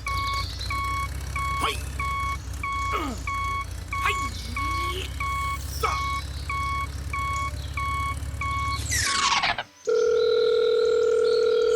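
A vehicle reversing beeper sounding about three beeps a second over a low, steady motor hum, with a few whistling glides in pitch. Near the end a falling sweep cuts it off, and after a brief gap a steady, loud horn-like tone holds for about two seconds.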